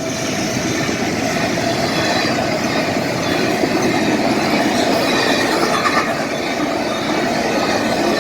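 BNSF freight train passing close by at speed, a steady loud rumble and rattle of wheels on rail.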